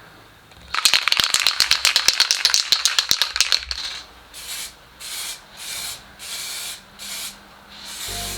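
An aerosol spray can being shaken, its mixing ball rattling fast for about three seconds, then sprayed in a series of short hissing bursts, roughly one or two a second.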